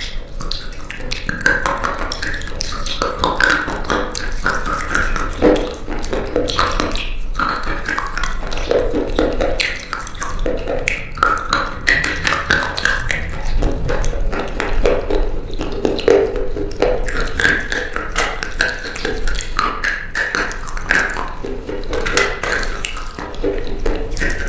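Dried-out bar soap crunching and crackling as it is cut and broken, one crunch after another with no let-up.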